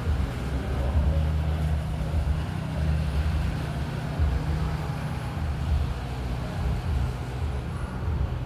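Steady low mechanical hum and rumble, a constant drone with no distinct events.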